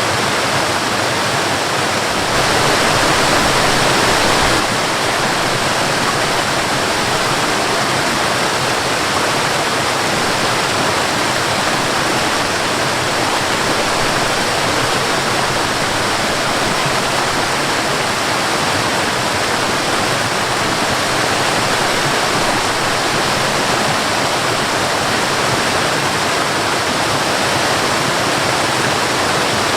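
Waterfall and river water rushing in a steady, dense roar of white water, briefly a little louder about two seconds in.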